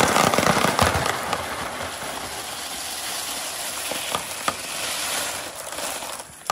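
A large crowd of marbles clattering and rolling down a marble run in a dense rush of countless small clicks, loudest at the start and thinning out, with a few single clicks near the end.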